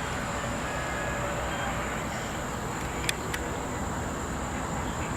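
A continuous high, even insect trill from a chorus of singing insects over a steady low rumble, with two faint clicks about three seconds in.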